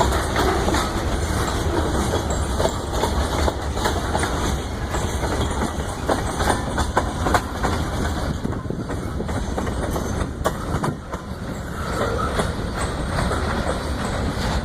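CSX freight train's cars rolling past, wheels clacking over the rail joints in an irregular run of sharp clicks over a steady rumble.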